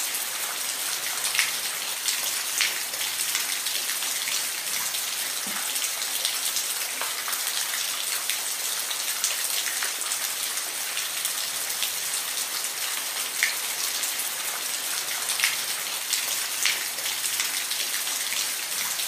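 Steady rain falling, an even hiss with individual drops ticking sharply every second or two.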